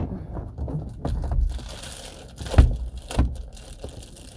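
Rustling, crinkling handling noise of gear being moved around inside a truck cab while setting up to sleep, with a few thumps, the loudest a little past halfway.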